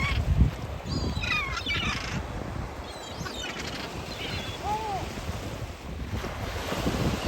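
Gulls calling in short bursts of wavering, falling cries, the busiest cluster about a second in and a single short call near the five-second mark, over a steady low rumble.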